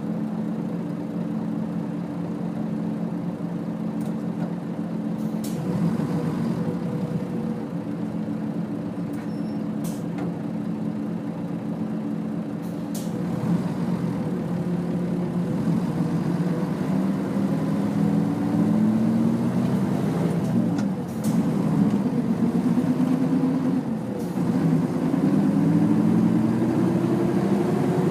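Nissan Diesel UA city bus's diesel engine, heard from on board: it idles steadily for several seconds, with a few short sharp hisses and clicks. It then pulls away, the engine note rising and dropping again and again as it shifts up through the gears, and grows louder toward the end.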